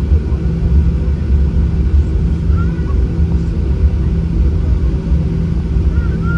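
Steady low rumble and hum inside the cabin of a Boeing 737-800, its CFM56-7B engines running at idle on the ground before takeoff.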